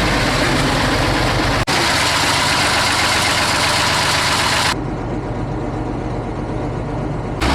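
MAZ-537's D12A-525 V12 diesel engine running steadily. The sound cuts abruptly about a second and a half in and again near five seconds in; after the second cut it is duller and a little quieter.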